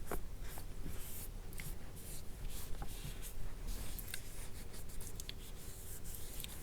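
Soft scratchy rubbing against a plastic mannequin face, as toner is worked over it, broken by many small irregular clicks and taps.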